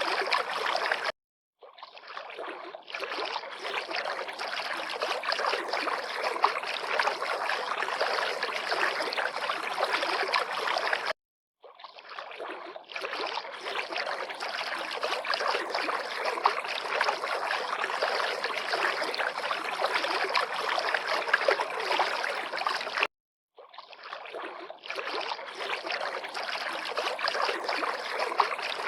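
River water lapping and flowing in a steady, even wash. The sound cuts to dead silence three times for under half a second each, about ten to twelve seconds apart, and fades back in each time, as a looped recording does.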